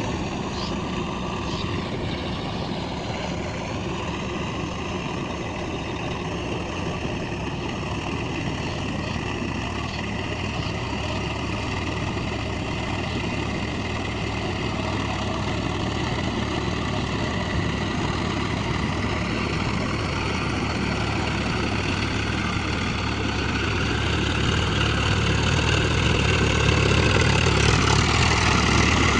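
Swaraj tractor's diesel engine running steadily, growing louder over the last several seconds.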